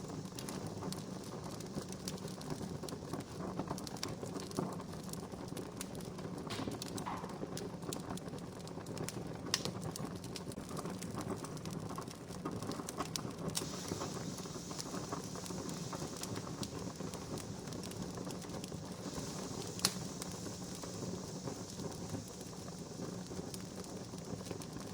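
Wood fire crackling steadily, with scattered snaps and a few sharper pops, the loudest about twenty seconds in.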